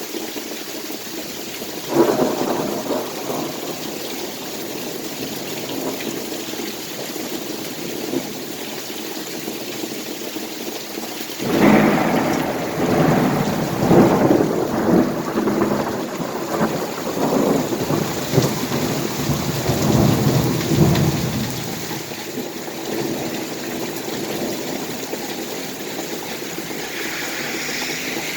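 Heavy rain falling steadily during a strong thunderstorm. A sudden thunderclap comes about two seconds in and fades, and a second, louder, long roll of thunder rumbles for about ten seconds from around the middle.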